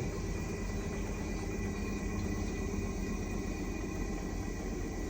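Washing machine running with a steady low hum as its final cycle winds down toward the stop.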